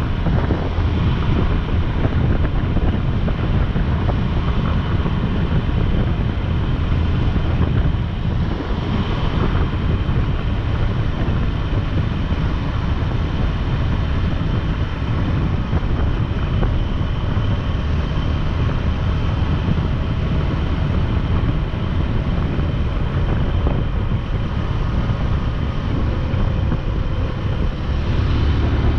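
Motorcycle under way, with wind rushing steadily over the microphone and the bike running underneath it.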